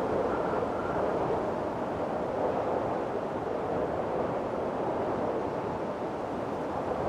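Windstorm wind blowing steadily, a dense rushing noise, with a faint howling whistle in the first second.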